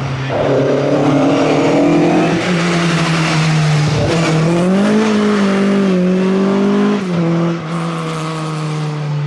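Classic rally car's engine running hard, its pitch holding and then rising and falling as it revs, with tyre noise mixed in.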